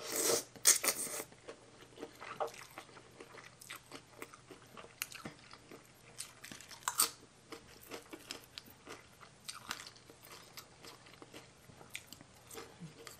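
Close-up mouth sounds of a person eating a spicy mixed salad with fresh raw vegetables: loud crunching bites in the first second, then chewing with scattered smaller crunches and clicks, and another sharp crunch about seven seconds in.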